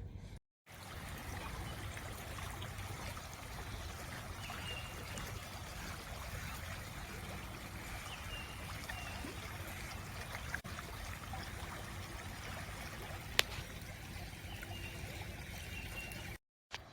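Running water trickling steadily, like a small woodland stream, with faint bird chirps over it and a single click about 13 seconds in. The sound cuts in just after the start and cuts off just before the end.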